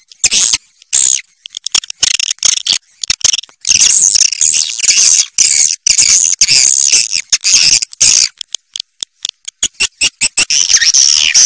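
Swiftlet calls: a rapid, high, chattering twitter that comes in broken bursts, densest and most continuous from about four to eight seconds in. This is the kind of swiftlet sound recording played in nesting houses to lure the birds.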